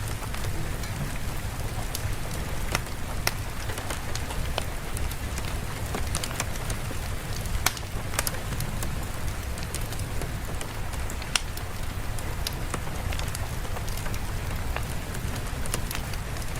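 Steady rain with a low rumble underneath and scattered sharp crackling clicks throughout.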